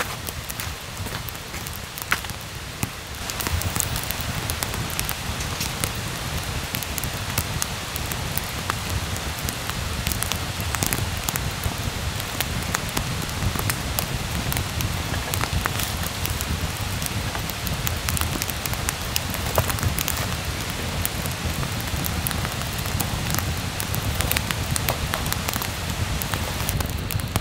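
Wood campfire crackling, with many sharp, irregular pops over a steady low rumble of flames that grows louder about three seconds in.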